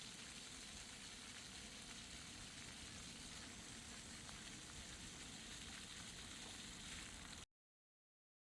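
Near silence: faint steady hiss of room tone, cutting off to dead silence near the end.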